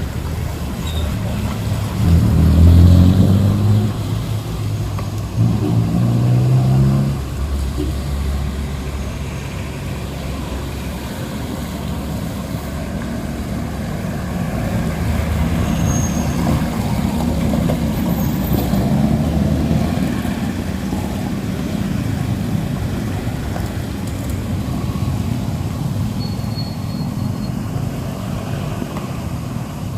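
Cars and trucks passing one after another on a wet uphill road bend, their engines pulling under load. Two louder vehicles go by about two and six seconds in, their engine pitch rising, followed by a steady rumble of traffic.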